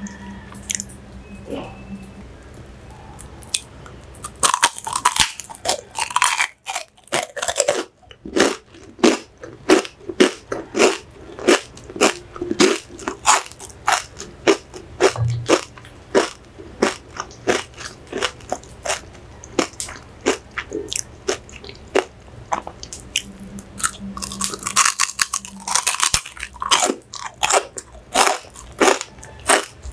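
Crisp crunching of chicharrón (deep-fried pork rinds) being bitten and chewed, a quick run of sharp crunches after a quieter first few seconds.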